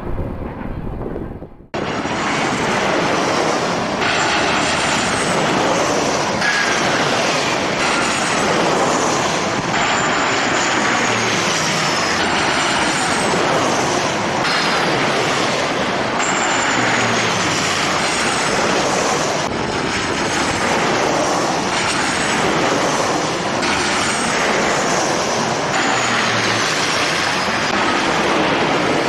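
Jet airliner engines, a loud steady roar with high whining tones that slide downward again and again; the roar starts suddenly about two seconds in.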